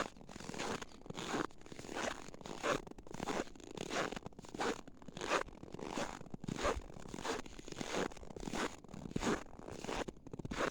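Footsteps in snow at a steady walking pace, about three steps every two seconds, each step a squeaky crunch; the snow squeaks loudly underfoot.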